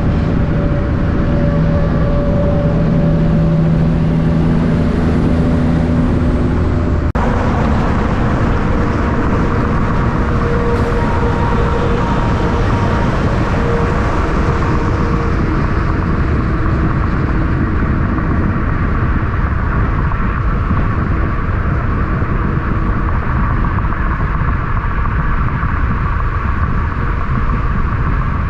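Heavy diesel truck running loudly close by, a steady low rumble with strong engine tones. The sound changes abruptly about seven seconds in, and a steady rumble carries on.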